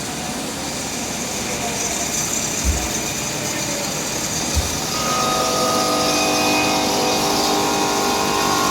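Engine of a construction machine running, with two low thumps in the first half; about five seconds in, it settles into a steady, humming whine.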